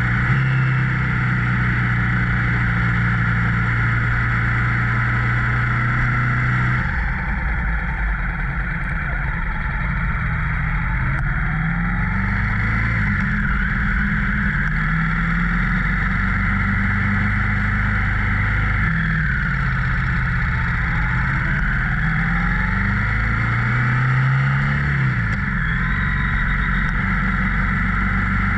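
Motorcycle engine under way, its pitch rising and dropping back several times as it pulls through the gears, over a steady rush of wind noise.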